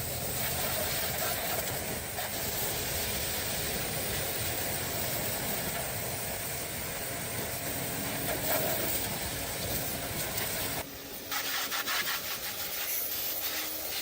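A steady, loud hissing spray. About eleven seconds in it breaks off briefly and comes back rougher and crackling.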